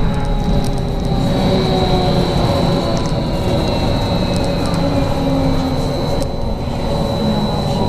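Inside a BKM 43300D trolleybus under way: the electric traction drive whines in tones that glide up and down as the motor's speed changes, over a steady high-pitched whine and road rumble. Light rattles come from the body.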